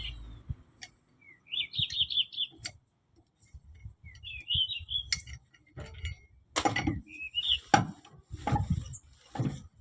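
Birds chirping in short trills several times, over a string of sharp metallic clinks and knocks, about seven in all, loudest in the second half.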